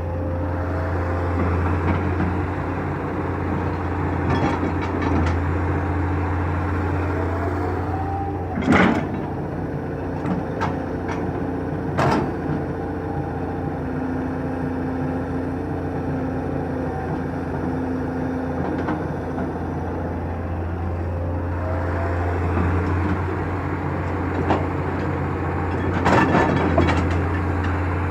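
Excavator's diesel engine running steadily under load, with a few short rising hydraulic whines. Two sharp metallic clanks come about nine and twelve seconds in, and a burst of clattering near the end.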